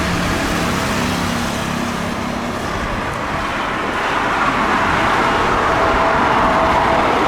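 Jet airliner engine noise: a loud, steady rush that grows a little louder in the second half, with a faint steady whine coming in.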